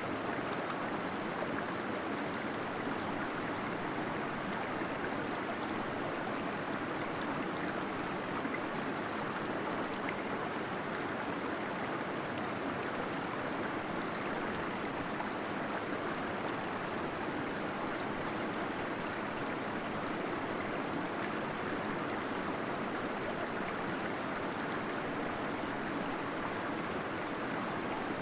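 Small waterfall splashing and gurgling steadily, its water sound echoing in a cave.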